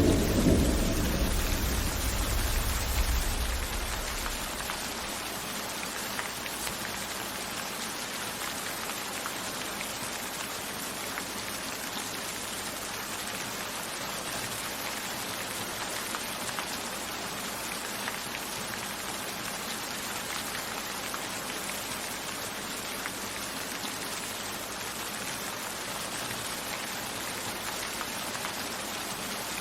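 Steady rain pattering, with individual drops ticking, as the tail of a thunder rumble dies away over the first few seconds.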